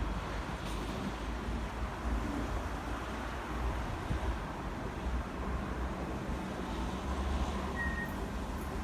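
Coal hopper wagons of a freight train rolling past: a steady low rumble.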